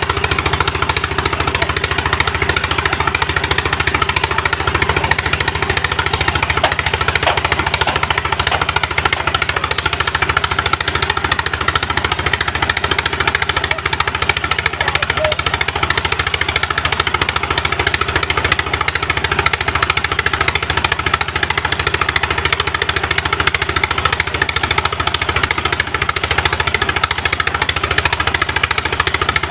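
Engine of a sand-suction pump running steadily under load with a rapid, even chugging.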